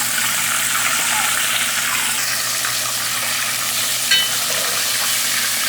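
Flour-dredged chicken breastbones deep-frying in hot oil, a steady sizzle. A short metallic clink about four seconds in.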